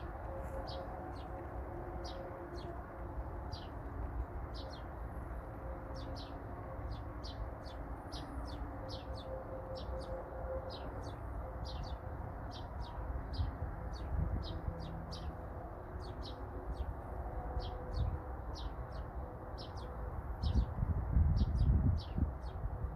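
A small bird chirping repeatedly, short high chirps about two to three a second, over a steady low background rumble; a louder low rumble comes in near the end.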